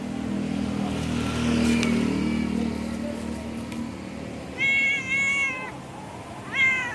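Domestic street cats meowing impatiently for food: one long, even meow about two-thirds of the way in, then a short rising meow near the end. A low hum sits under the first half.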